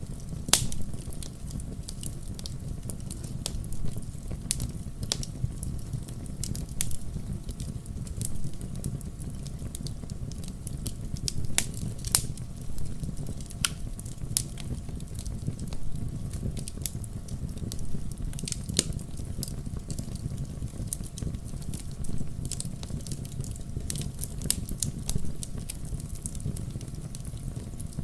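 Wood fire crackling: a steady low rumble of flames with frequent small snaps and a few sharper pops, one right at the start and others about twelve, nineteen and twenty-four seconds in.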